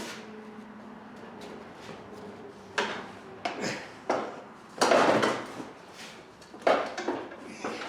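Metal clunks and scraping as a heavy small engine is lifted and set down onto a ride-on mower's frame: a few separate knocks, a longer, louder clatter about five seconds in, and two more knocks near the end.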